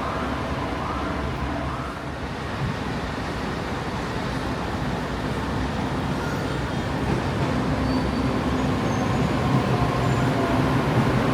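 Metro train running, heard from inside the car: a steady rumble and hum of wheels and motors, with faint gliding motor tones in the first couple of seconds and growing a little louder toward the end.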